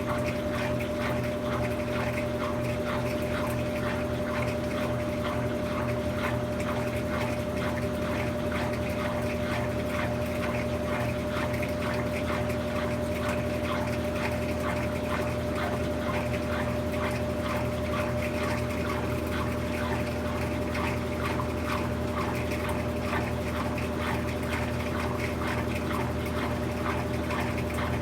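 Brastemp 17 kg washing machine (BWK17) running mid-cycle: a steady pump-motor hum under continuous water splashing and gushing.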